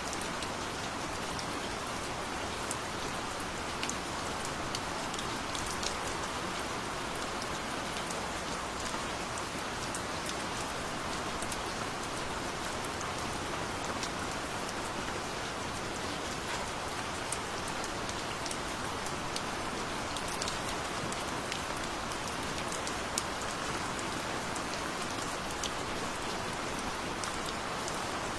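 Steady gentle rain falling on a surface, an even hiss with many small drop ticks scattered through it.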